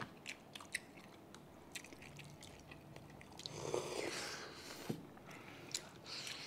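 Mukbang eating sounds: biting and chewing with many sharp wet mouth clicks as boiled pig's head meat is gnawed off the bone. About three and a half seconds in, a louder slurp of sinigang broth from a bowl lasting about a second.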